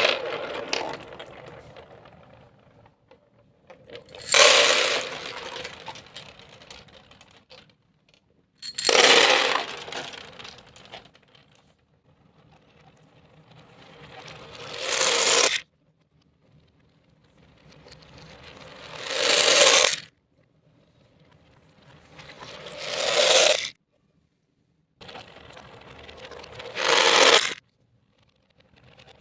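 Small beads poured in a series of seven clattering cascades. The first three start suddenly and die away, and the last four play in reverse, swelling up and cutting off abruptly.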